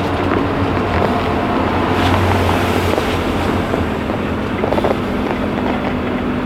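Scania K310IA articulated bus running, a steady low engine drone with road and wind noise.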